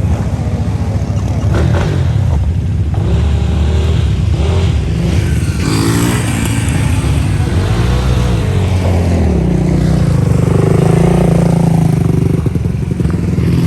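Off-road bike engines running and revving, the pitch rising and falling several times.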